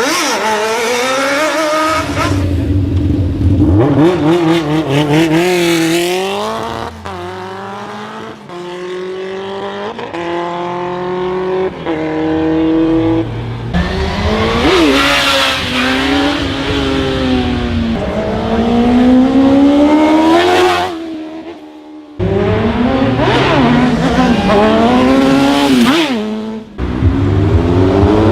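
Superbike engines revving hard and accelerating, the pitch climbing and dropping back again and again as they run up through the gears, with a brief break about 22 seconds in.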